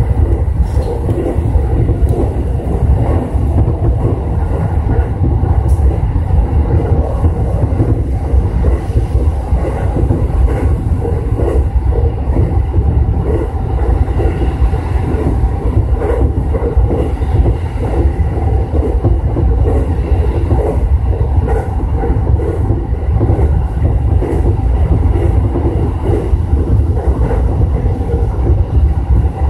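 E233-series electric commuter train running along the line, heard from inside the front car: a steady, loud rumble of wheels on rails with scattered faint clicks.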